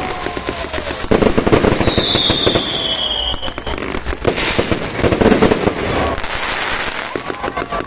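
Many fireworks and firecrackers going off together in a dense stream of pops and crackles, with a falling whistle about two seconds in.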